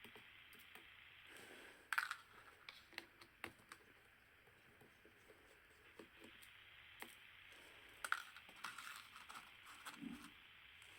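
Faint scattered clicks and scrapes of small hand tools working on and handling a Nikon D5600 camera body during disassembly, the sharpest clicks about two seconds in and around eight seconds.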